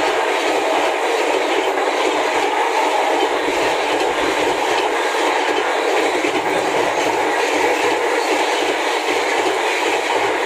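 Express passenger train running through a station at speed, its coaches rolling past in a loud, steady rush of wheel-on-rail noise that starts fading just after the end.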